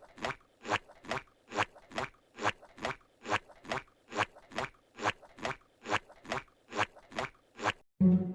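Rhythmic crunching, about two and a half crunches a second, evenly spaced, cutting off abruptly near the end.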